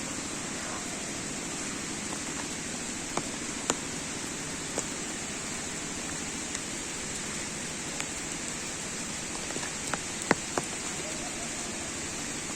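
Steady rush of running water from the stream and waterfalls, an even hiss throughout, with a few short sharp ticks, most of them about ten seconds in.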